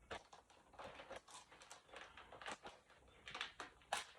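Plastic snack packet crinkling as it is handled and dug into, a faint run of small irregular crackles.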